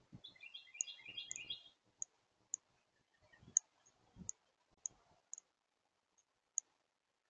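Birds at a feeder picked up by the feeder camera's microphone: sharp high ticks repeat every half second or so, with a quick run of chattering notes in the first two seconds and a few soft low thumps.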